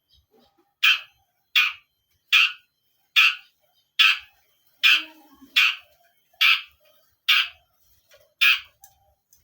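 A caged bird giving a run of ten harsh, rasping calls, evenly spaced at a little under one a second.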